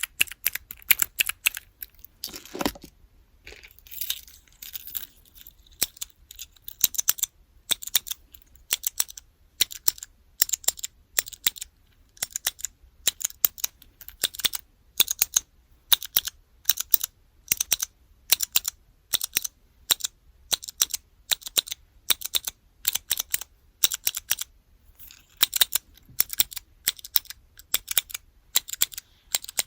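Blue-switch keys on a small keyboard-block keychain being pressed over and over, giving sharp clicks in quick clusters. There is a short break with a softer handling rub a few seconds in.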